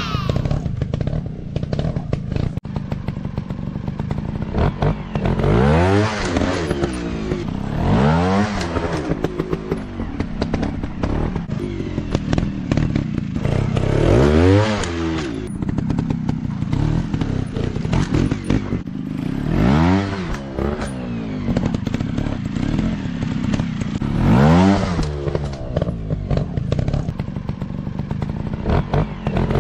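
Dirt bike engines running, revved up and back down again and again: about five or six rising-and-falling swells in pitch over the stretch, with steady running in between.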